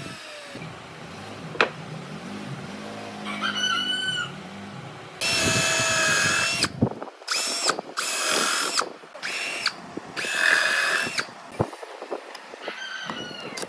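Power drill running in several short bursts of about a second each, a high whine that starts and stops.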